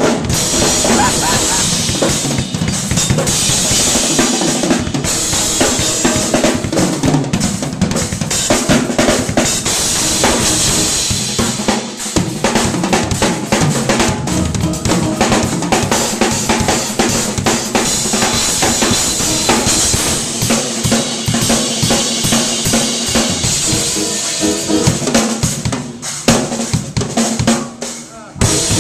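Drum kit played fast and dense in a shed: rapid snare and bass drum strokes with rimshots under a constant wash of cymbals. It breaks off briefly near the end.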